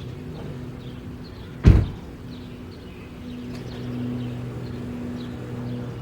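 Chevy 5.3-litre Vortec V8 idling through a 3-inch stainless exhaust with a Borla XR-1 muffler, its drone getting a little louder in the second half. A single loud thump, like a door shutting, comes about two seconds in.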